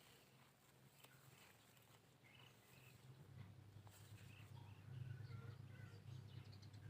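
Near silence: faint, scattered chirps of small birds over a low hum that grows a little louder near the end.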